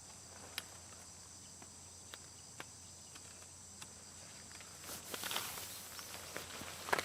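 Insects, crickets by their sound, trilling steadily in a high, thin tone, with a few scattered sharp clicks and a short rustling shuffle about five seconds in.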